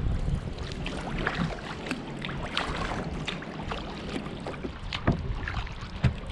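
Double-bladed kayak paddle strokes on a sea kayak: water splashing and dripping off the blades in many short, irregular splashes. A low wind rumble on the microphone runs underneath.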